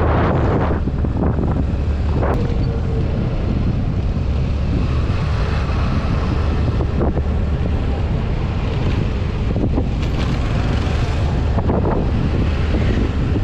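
Wind buffeting the microphone during a ride, over the steady low rumble of the vehicle, with a few brief knocks.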